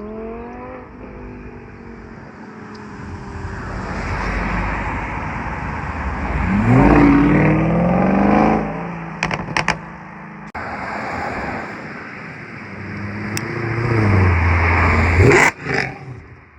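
A high-performance car engine revving hard and accelerating away twice, its pitch climbing each time, with a few sharp cracks just after the first pull.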